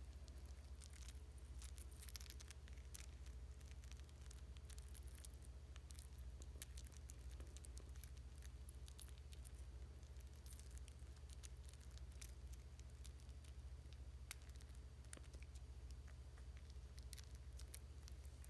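Near silence: a steady low hum with faint, scattered small ticks.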